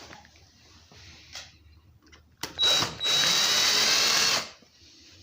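Power drill-driver tightening the bolts on a chainsaw's plastic cover. A short burst about two and a half seconds in is followed by a steady high whine of about a second and a half, which stops suddenly.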